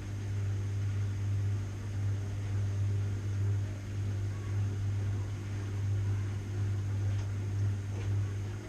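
Washing machine running: a steady low hum that swells and eases about once a second as the drum turns.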